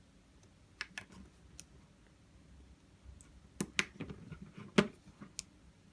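A few light, sharp clicks and taps scattered through a quiet room, the loudest about five seconds in.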